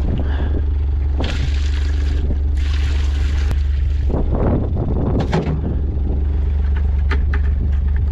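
Wind rumbling on the microphone over a small utility-vehicle engine idling, with a hissing rush from about one to three and a half seconds in and a few light clicks later.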